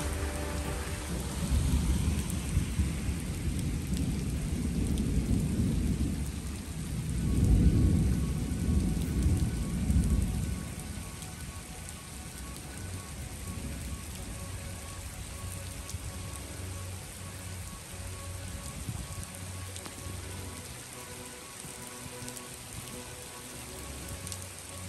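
Heavy rain falling on a wet street, a steady hiss of rain on pavement. A low rumble runs through the first ten seconds, loudest around eight seconds in, then dies away and leaves only the rain.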